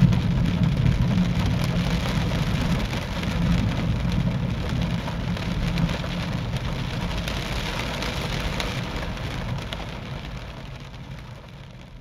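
Thunderstorm rain falling steadily with a continuous low rumble underneath. The sound fades out over the last few seconds.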